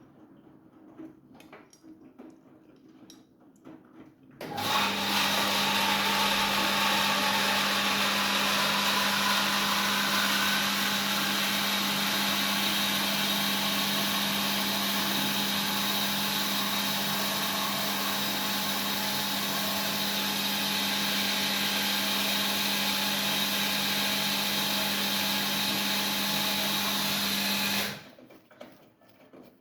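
Siemens iQ700 front-loading washing machine during its fabric-softener rinse: after a few faint ticks, a loud steady rushing noise with a low hum starts suddenly, runs evenly for over twenty seconds and cuts off abruptly near the end.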